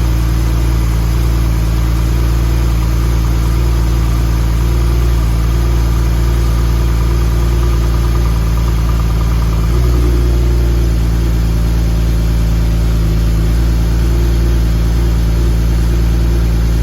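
2013 Porsche 911 Turbo S twin-turbocharged flat-six engine idling steadily after a cold start, with a brief shift in its note about ten seconds in.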